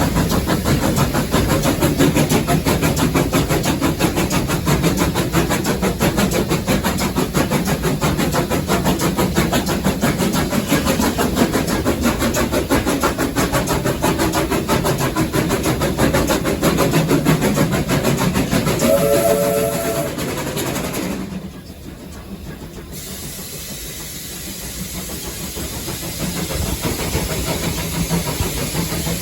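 Steam locomotive running, heard from inside the cab: a dense, fast rattling with hiss. About 19 seconds in a brief tone sounds, then the noise drops sharply and slowly builds back up near the end.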